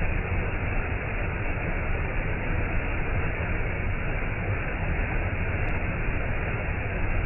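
Waterfall: a steady, dense rush of falling water, heaviest in the low end.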